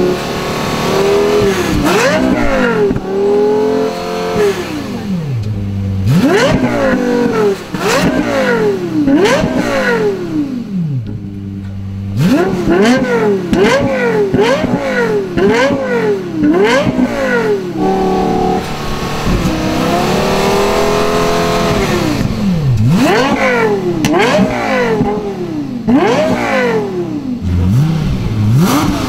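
Lexus LFA's 4.8-litre naturally aspirated V10 revved hard over and over, high in the rev range. The pitch shoots up and drops back to idle each time, sometimes in quick runs of several blips, with short settled idle stretches between.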